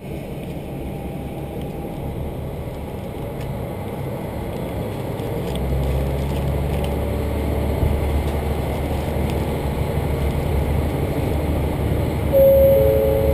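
Low rumble of a train heard from inside a passenger carriage, growing louder about halfway through. Near the end a short two-note tone sounds over it.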